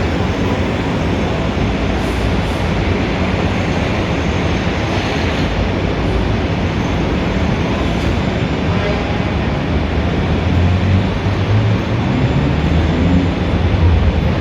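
Dense city street traffic ambience: a steady wash of passing vehicles and crowd noise, with a heavier vehicle's engine rumbling louder and rising in pitch over the last few seconds.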